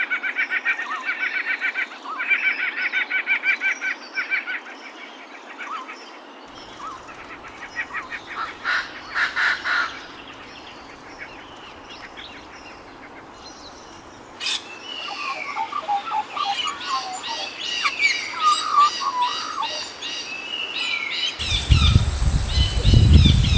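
Birds chirping and calling in a run of short clips, starting with rapid repeated trilled notes and later quick, varied chirps and whistles. Near the end a louder low-pitched sound comes in under the birdsong.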